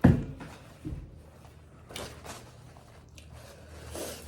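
A dull thump, a smaller knock about a second later, then a few faint clicks and a soft breath out near the end: handling noise from someone seated at a table.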